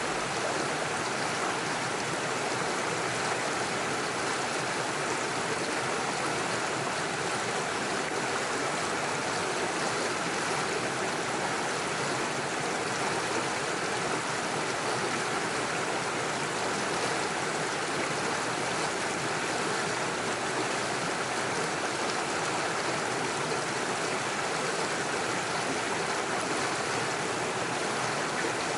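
Small rocky stream rushing steadily over stones and little waterfalls, an even splashing wash of water with no breaks.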